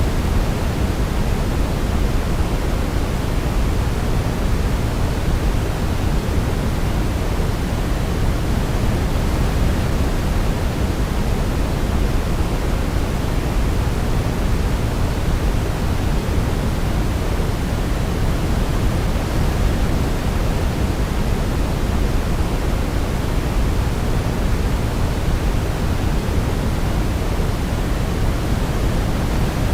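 Steady sleep-aid white noise: an even, unchanging hiss weighted toward the low end, with no melody audible.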